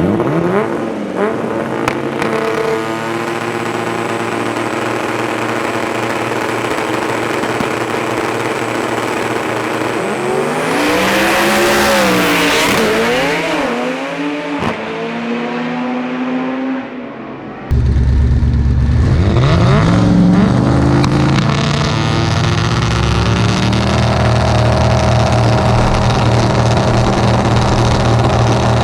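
Drag race car engines running and revving, their pitch rising and falling, with a loud hissy stretch about a third of the way in. A little past halfway the sound jumps abruptly to a louder, deeper engine note that keeps running.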